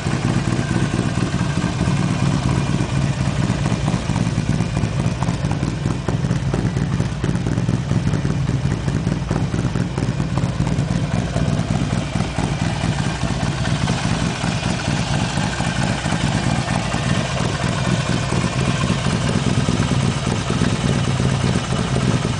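Harley-Davidson Sportster 48's 1200 cc air-cooled V-twin running at a steady idle through a Torque Hammer full exhaust with no dB killer fitted. The exhaust note is deep and dark.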